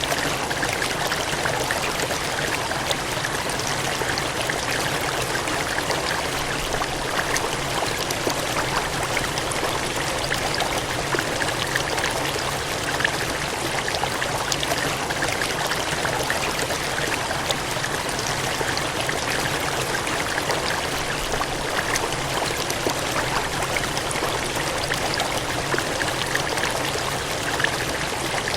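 Steady gushing of cascading water, a continuous even rush with small splashes and no letting up.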